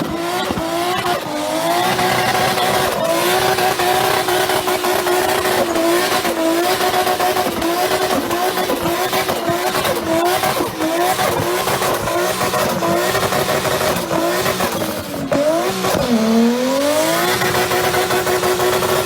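Drift car doing a burnout: the engine is held at high revs with repeated quick dips and recoveries, over the steady hiss and squeal of spinning tyres. Near the end the revs drop sharply and climb back up over about a second.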